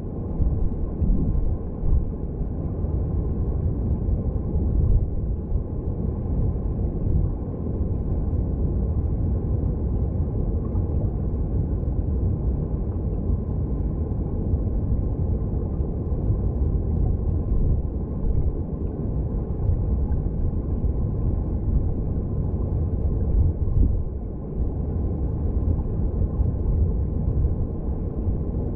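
Mountain stream heard underwater: a steady low rumble of flowing water, with little above the low and middle range.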